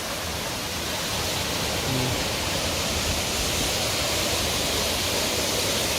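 Waterfall rushing, a steady dense hiss of falling water.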